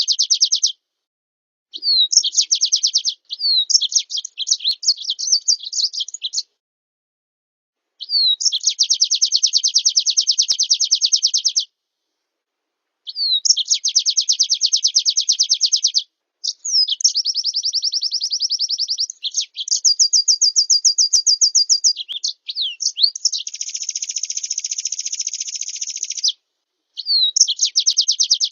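Recorded songbird song: phrases of very rapid, high trills, several opening with a short upward slur, cut apart by brief silent gaps.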